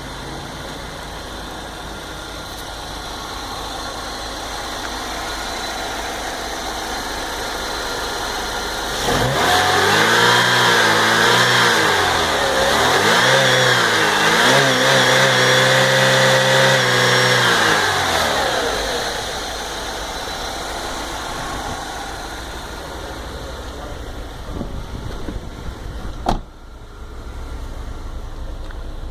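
2002 Saturn L-series 2.2-litre four-cylinder engine idling, then revved twice about nine seconds in, the second rev held high for a few seconds, before it drops back to a steady idle. A single sharp click comes near the end.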